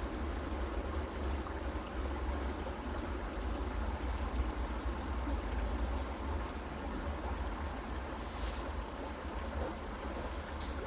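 A stream flowing steadily, an even rushing of water with a low rumble underneath. A few faint ticks come near the end.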